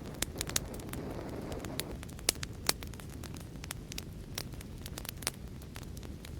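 Fireplace fire crackling: irregular sharp pops and snaps over a low, steady rumble. A soft hiss runs from about half a second to two seconds in, and two louder pops come between two and three seconds in.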